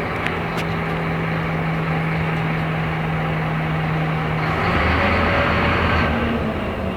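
Scania K270IB city bus's rear diesel engine running with a steady tone. About four and a half seconds in, the tone breaks off and the engine grows louder and deeper for about a second and a half, then settles back.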